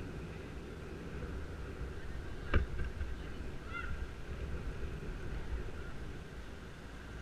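Wind rumbling over a helmet-mounted camera microphone while cycling, with a single sharp knock about two and a half seconds in, from the loose helmet mount jolting. A short high chirp follows about a second later.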